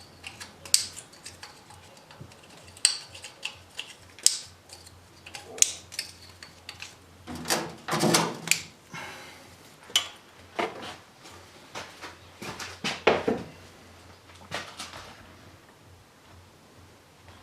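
Irregular metallic clicks, clinks and knocks of hand tools and engine parts being handled while the engine is reassembled, with a group of louder knocks about halfway through and another a few seconds later.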